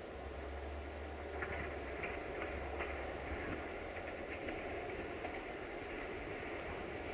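A distant train approaching out of sight, heard as a low, steady rumble with faint scattered clicks.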